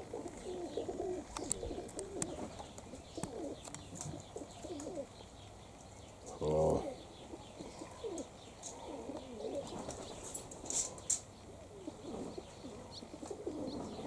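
Domestic pigeons cooing, many overlapping low warbling coos, with one louder, lower sound about six and a half seconds in and a few brief high chirps.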